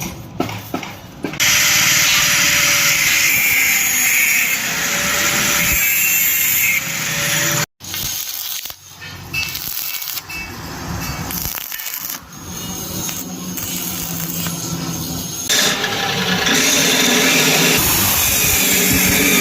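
Power tools cutting and grinding metal in a fabrication shop, a harsh steady noise with a faint wavering motor whine. It stops dead about eight seconds in, then comes back in shorter, uneven stretches and runs loud again for the last few seconds.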